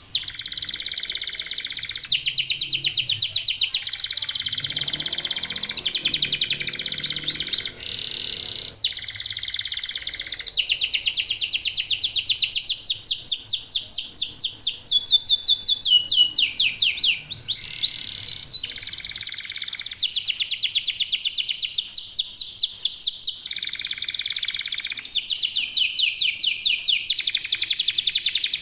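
Local domestic canary singing a long, continuous, high-pitched song of fast trills, with rapidly repeated notes in places about five or six a second and short breaks between phrases.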